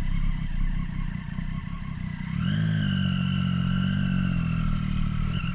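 Motorcycle engine under low rumbling noise. About two and a half seconds in, its note rises and then holds steady at a constant pitch.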